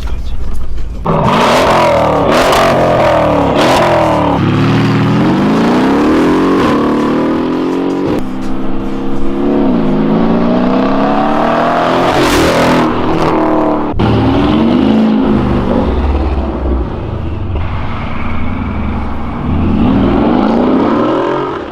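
Mercedes-AMG GLE63 S twin-turbo V8 with a valved Fi aftermarket exhaust accelerating hard. The pitch climbs and drops back several times as it shifts through the gears, with one sharp crack about two-thirds of the way through.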